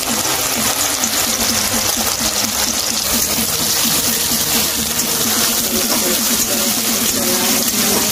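Soya chunks frying in hot oil in a kadhai: a steady sizzle.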